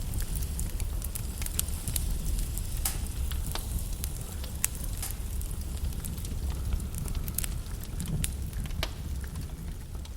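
Wood log fire crackling: irregular sharp pops and snaps over a low, steady rumble of the flames.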